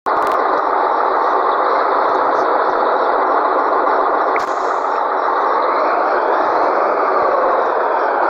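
Scania 113G truck's six-cylinder diesel running, heard as loud, steady, harsh engine noise with faint pitch sweeps near the end.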